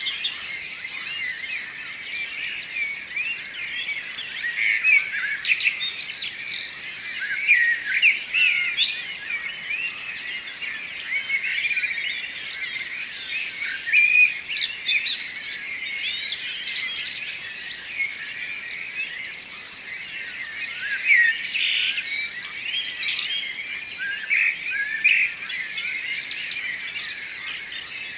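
Morning chorus of wild songbirds: many birds singing and chirping at once, a dense overlapping tangle of quick high notes and trills.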